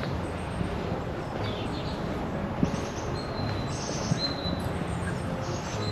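Small birds chirping and singing in short high phrases over a steady low background rumble. Two short sharp taps come about two and a half and four seconds in.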